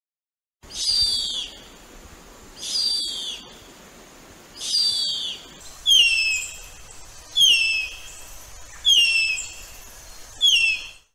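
A bird calling seven times, each a high, downward-sliding call, about one every one and a half to two seconds; the first three are longer and hoarser, and the last four are sharper whistled notes.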